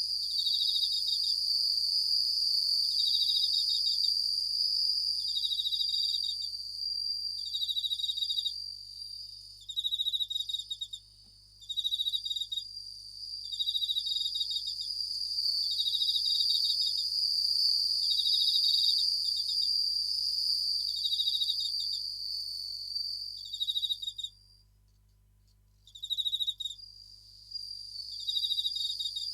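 Japanese bell crickets (suzumushi) singing: short ringing trills repeating about once a second over a steady high ringing chorus. The sound drops out almost completely for a moment near the end, then resumes.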